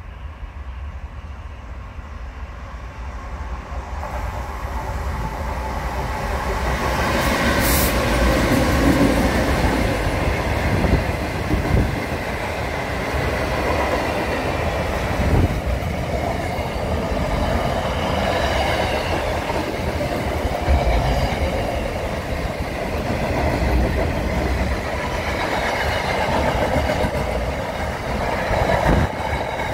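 Freight train approaching and passing close by: the locomotive grows louder over the first several seconds, then a long line of container wagons rolls past with continuous wheel-on-rail rumble and clatter, and repeated thumps as the wheels cross the rail joints.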